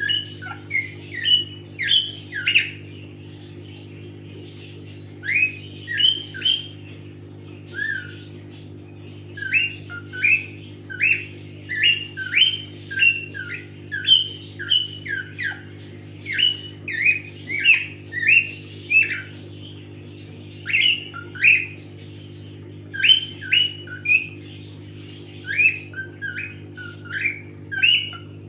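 Pet parrot giving short, sharp calls over and over, each one a quick upward or downward flick in pitch. The calls come in runs with pauses of a second or two, over a steady low hum.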